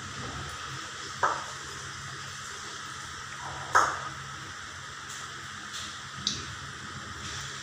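Fish roe and gram-flour fritter frying in hot mustard oil in a steel kadai: a steady sizzle, broken by three short, sharp cracks about a second, nearly four and about six seconds in.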